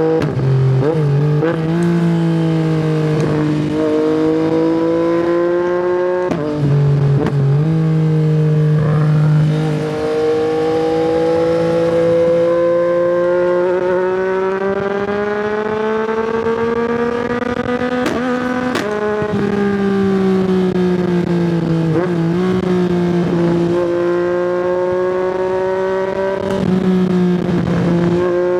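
Yamaha MT-09's inline three-cylinder engine through an Akrapovic exhaust, heard from the riding position under way. The engine note rises and falls with the throttle, with several sharp breaks in the note along the way.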